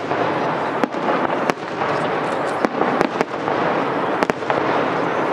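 Aerial firework shells bursting overhead: a string of about seven sharp bangs, irregularly spaced, over a steady noisy background.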